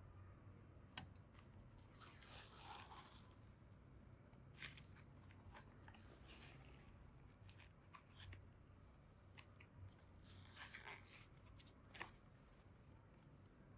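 Faint crinkling, scraping and light clicks of hands and tools working modelling clay and slime, in a few short bursts over a low hum.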